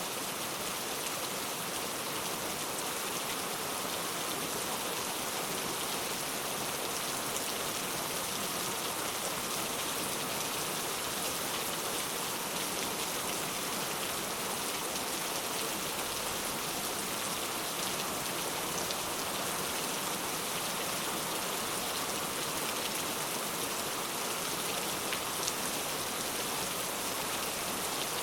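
Steady rain falling on a hard surface, an even hiss with scattered small drop ticks.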